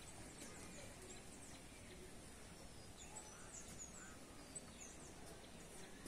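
Near silence: quiet outdoor ambience with faint, scattered high bird chirps.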